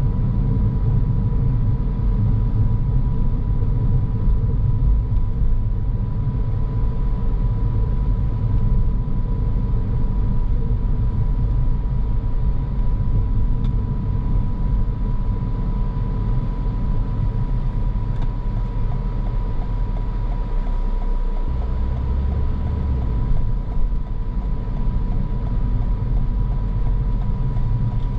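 Car driving on the road: a steady low rumble of road and engine noise with a thin constant tone above it. About three-quarters of the way through, the rumble briefly gives way to a steadier low hum for a second or so.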